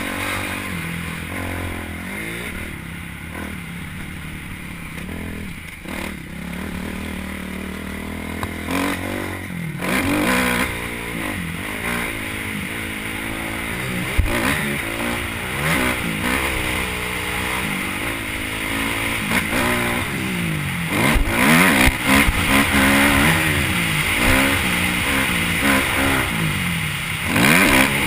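Motocross bike engine revving up and down over and over, its pitch rising and falling with each burst of throttle, with a few short knocks and clatter along the way.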